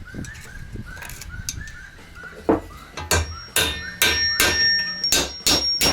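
Hammer blows on metal, about eight strikes at roughly two a second starting in the second half, each leaving a thin metallic ring: knocking worn bushings out of a motorcycle swingarm.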